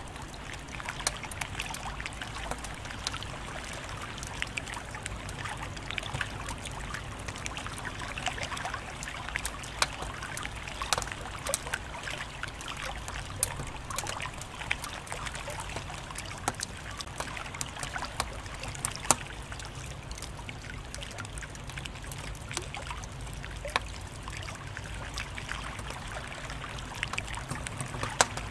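Wood fire crackling, with many irregular sharp pops and snaps over a steady soft hiss.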